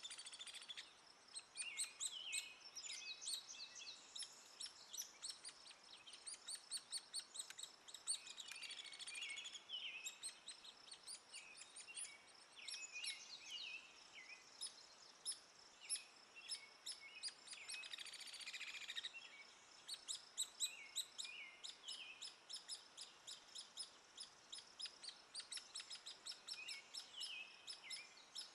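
Hairy woodpecker chick begging: a continuous run of short, high-pitched chirps repeated several times a second, with some lower warbled chirps at times and a brief denser burst about two-thirds of the way in.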